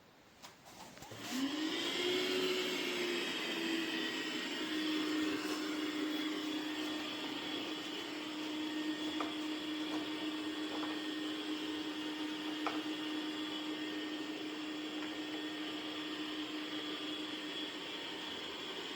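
A few clicks, then about a second in the Dreame X50 Ultra robot vacuum's suction motor spins up with a rising whine and settles into a steady run.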